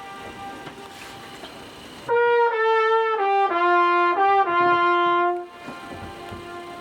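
A trumpet plays a short phrase of held notes stepping up and down, about two to five seconds in. Fainter copies of the notes come back before and after it, an echo off the cliffs around the Königssee, where the tour-boat trumpeter plays to show the echo.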